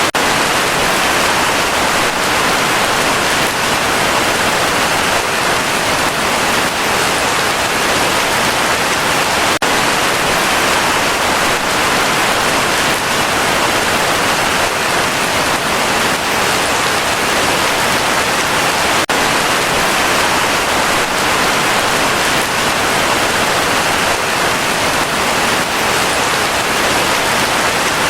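Heavy rain falling steadily, a dense and even hiss of drops with no thunder.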